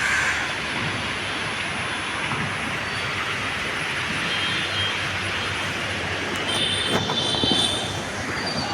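Metro train running on its rails, a steady rush of wheel and rail noise. A high-pitched wheel squeal joins for about a second, starting about six and a half seconds in.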